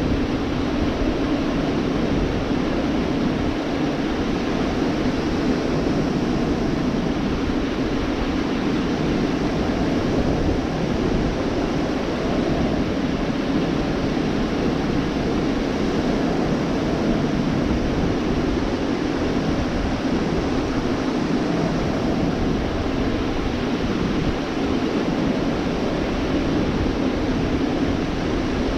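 Gulf of Mexico surf washing on a beach: a steady, continuous rush of waves with no single break standing out.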